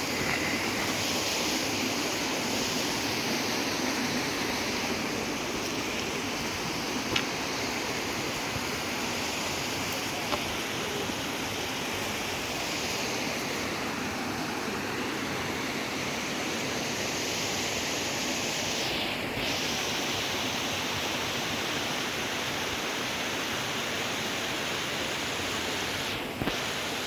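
Steady, even rush of falling water, with a short sharp tick about seven seconds in and a fainter one a few seconds later.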